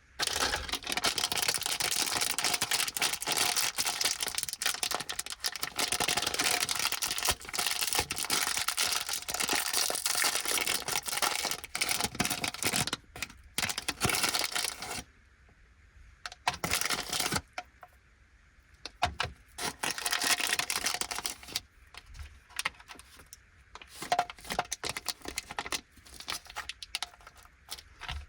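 Plastic candy packaging of a four-pack of gummies crinkling and tearing as it is opened and handled: dense continuous crinkling for about fifteen seconds, then shorter bursts of rustling with brief pauses between them.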